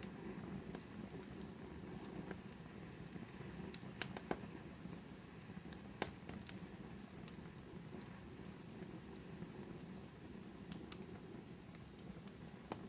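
Fire burning in a fireplace: a faint steady low rush with scattered crackles and pops, the sharpest about six seconds in.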